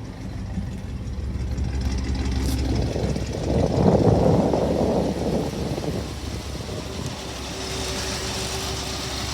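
1972 International Harvester 1210 pickup's V8 engine idling steadily just after a start, with a louder, rougher swell of sound lasting about a second and a half near the middle.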